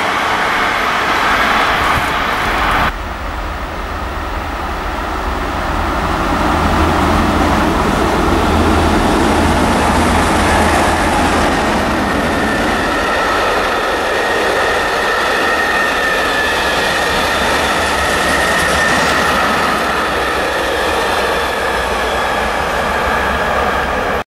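Freight trains rolling past on the main line: the rumble and rail clatter of a container train's last wagons, then, after an abrupt change about three seconds in, a long train of hopper wagons passing. A high steady tone from the wheels comes in about halfway through.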